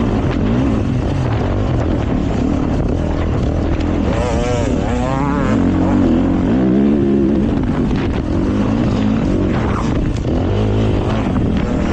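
Dirt bike engine running hard on a trail ride, its pitch rising and falling as the throttle is worked, with quick wavering revs about four to five seconds in.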